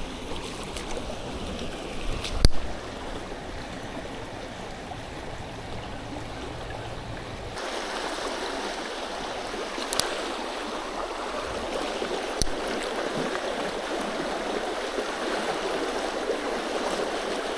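Flowing creek water, a steady rush, with a few sharp clicks. About halfway through, the deep rumble under the rush drops out suddenly.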